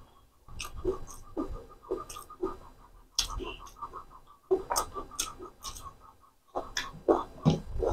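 Close-up mouth sounds of a man eating chicken liver curry with rice by hand: wet chewing and lip smacks coming as irregular sharp clicks with short pauses between them.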